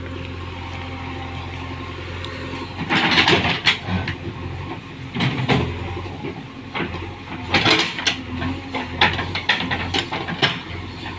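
A heavy vehicle engine runs steadily with a constant low hum. From about three seconds in, irregular louder noisy bursts come and go over it.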